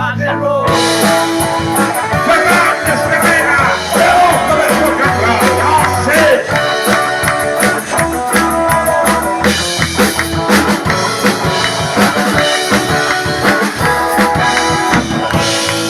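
Live rock and roll band playing, with drum kit, electric guitar, bass and a singing voice.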